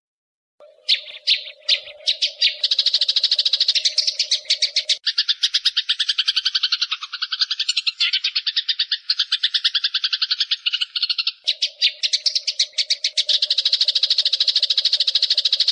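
Eurasian tree sparrows chattering in a fight: fast, unbroken trains of harsh chirps at about ten a second, starting just after a brief silence. A low steady hum runs beneath the chirps except through the middle stretch.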